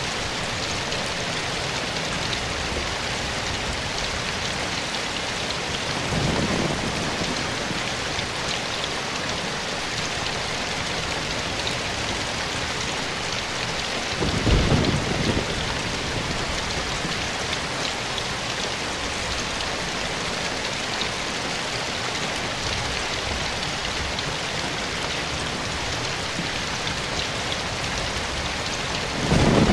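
Steady rain falling in a forest, an even hiss of drops on leaves and ground. Three brief, louder low thuds stand out: one about a fifth of the way in, one around the middle and one at the very end.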